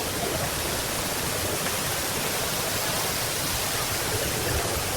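Steady, even hiss of rushing or spraying water.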